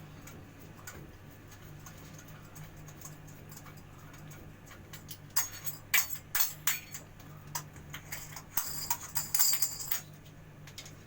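Metal clinks and sharp taps of tools and fittings being handled during plumbing work, a few at a time from about halfway, ending in a jingling rattle near the end, over a steady low hum.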